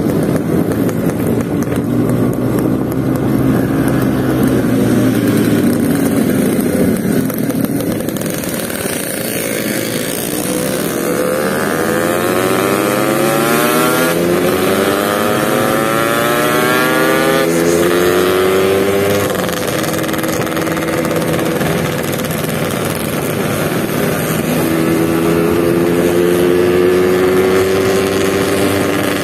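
Yamaha RX-King two-stroke motorcycle engine running under way, heard from the bike itself over wind rush. Its pitch climbs as it accelerates about a third of the way in, holds steady, then climbs again near the end.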